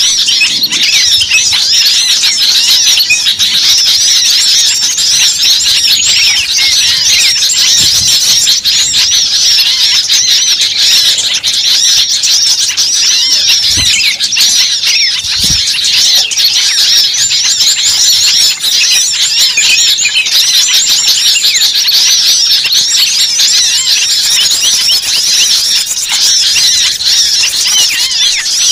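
A dense, loud chorus of many small birds giving rapid high chirps and squeaky calls with no break: a noisy bird-lure recording of agitated small-bird calling, meant to draw small birds in. Two brief low thuds a little past the middle.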